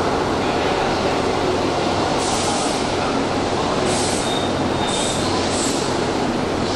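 Keihan commuter electric train pulling into an underground station platform: a steady rolling rumble that carries through the station, with short, high metallic squeals from the train's wheels several times from about two seconds in.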